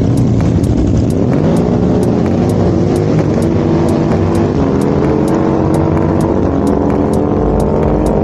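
Drag-racing motorcycle engine running loud, its pitch climbing over the first few seconds and then holding high.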